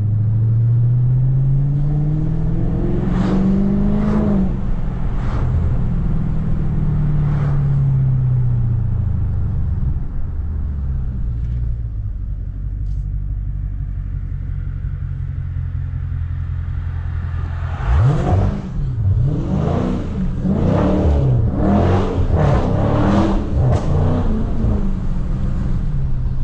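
Dodge Scat Pack's 6.4-litre HEMI V8 pulling hard, its engine note rising for about four seconds and then falling away as the throttle lifts. It runs steadily for a while, then gives a run of quick revs rising and falling near the end.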